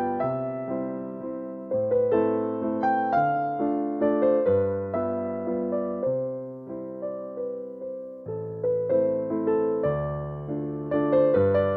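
Background music: a gentle electric piano melody over sustained chords, notes struck and left to fade.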